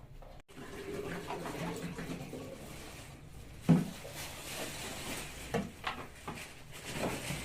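Water running steadily, with one sharp knock a little past the middle and a few lighter knocks after it.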